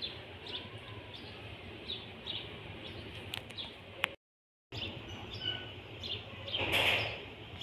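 Small birds chirping in the background, short high chirps coming about twice a second over a steady low hum. The sound cuts out completely for about half a second around four seconds in, and a brief louder rush of noise comes near the end.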